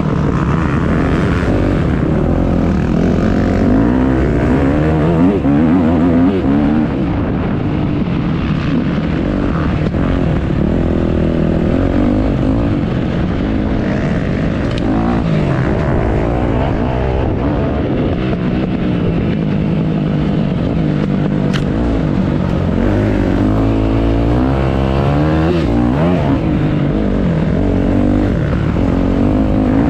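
Motocross bike engines revving, their pitch rising and falling over and over as the bikes accelerate and shift, with more than one engine heard at a time.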